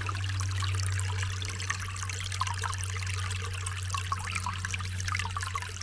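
Small forest stream trickling and splashing over rocks: an even patter of small splashes over a steady low hum.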